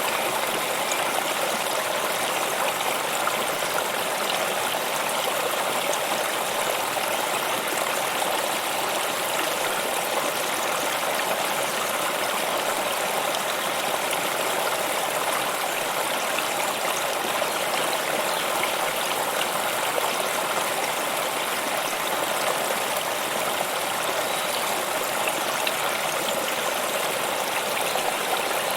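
Stream water flowing and splashing steadily.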